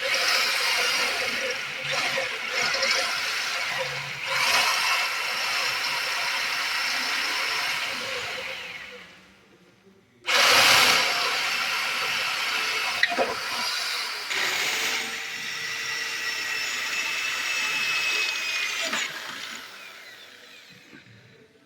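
A small power tool running in two spells with a high whine, cutting out for about a second near the middle, then starting again abruptly.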